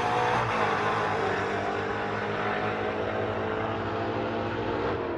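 Drag-racing car engine running hard, its sound growing steadily fainter.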